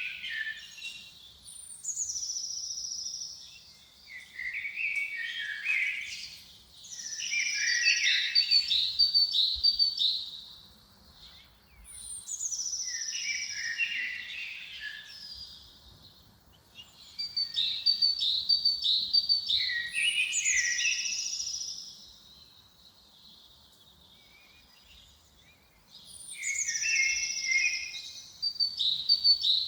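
A songbird singing the same short phrase over and over, about every five seconds. Each phrase opens with a high note sliding down, then a quick run of notes, then lower notes. There is a longer pause near the end before the song starts again.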